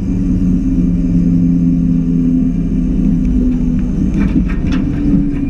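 Suzuki Grand Vitara 4x4's engine running steadily at low revs, with a few short clicks about four seconds in.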